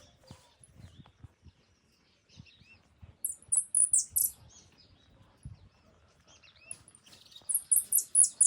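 Birds chirping: a quick run of short, very high notes about three seconds in and another near the end, with softer, lower curving notes between.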